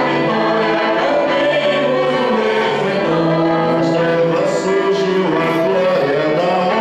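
Church music at Mass: a group of voices singing a hymn with instrumental accompaniment, in long held notes.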